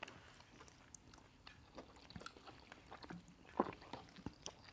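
Faint chewing of a mouthful of jollof rice, with scattered soft clicks.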